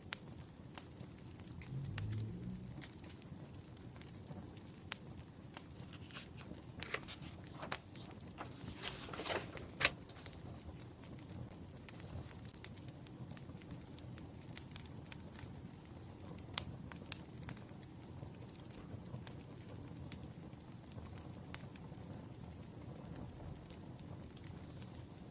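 Firewood burning, with a steady low hiss and scattered sharp crackles and pops, a quick cluster of them about nine seconds in. A brief low sound about two seconds in.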